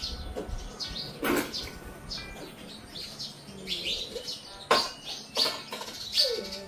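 Small birds chirping over and over in short, quick calls, with two sharp knocks, one about a second in and one near five seconds.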